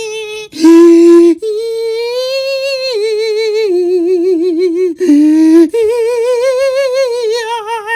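A high voice singing or humming long held notes with a wide, fast wobble, sliding between pitches. It is cut twice by a brief, louder, lower buzzy note.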